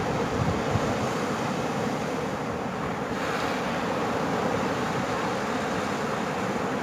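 Ocean surf breaking and washing on a beach: a steady rush that swells about three seconds in. Wind buffets the microphone.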